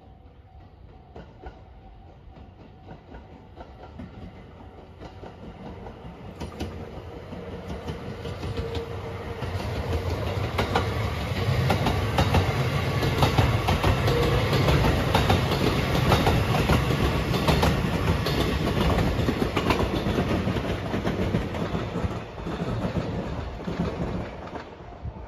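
Rapid Marine Liner electric train coming up and passing close by. It grows louder over the first ten seconds, the wheels click over the rail joints, and it fades near the end.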